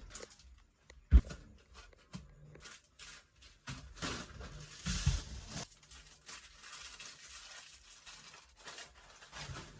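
Irregular handling noises: a sharp knock about a second in, scattered light knocks, and a stretch of rustling around four to five and a half seconds in.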